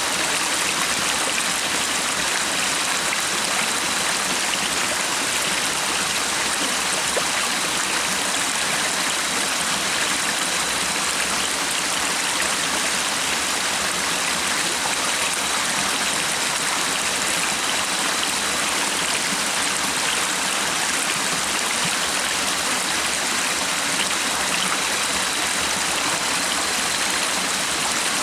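Stream water running steadily, a constant rushing hiss.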